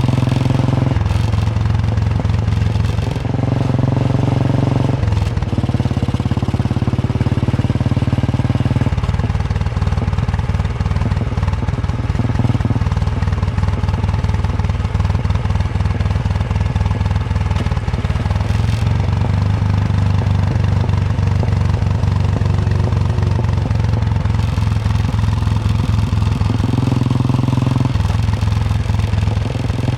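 Royal Enfield Bullet 350's single-cylinder engine thumping along under way. Its note shifts in steps several times in the first nine seconds, then runs steadier with smaller changes.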